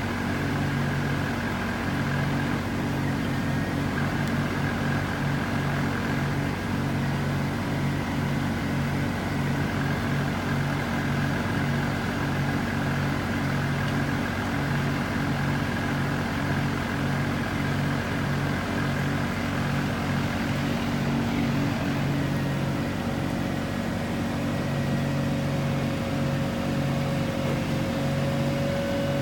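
Engine of the tree-dismantling equipment running steadily, a low hum with an even throb. A steady higher whine joins about three-quarters of the way through.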